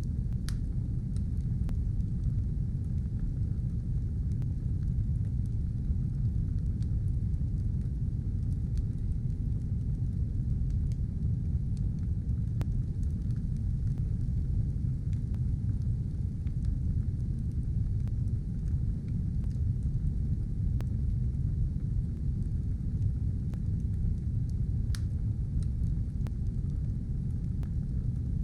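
Wood fire burning in a stove: a steady low roar with sparse, scattered crackles, one sharper pop about half a second in and another near the end.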